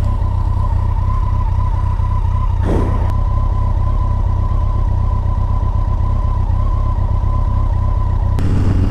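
Kawasaki ZZR1400's inline-four engine running at a steady cruise, with a steady whine over a low rumble and wind rush. A short falling whoosh comes about three seconds in, and the noise grows a little louder near the end.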